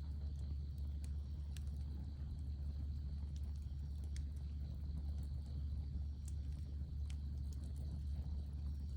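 Campfire burning, with scattered sharp crackles and pops from the wood over a steady low rumble.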